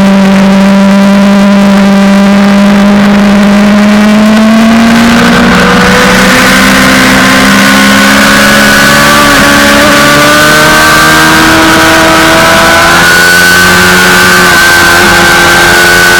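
Suzuki GSX-R600 inline-four sportbike engine under way on track, heard onboard: it holds a steady note for about five seconds, then the pitch steps up and keeps climbing slowly under throttle, with a rushing hiss of wind growing alongside.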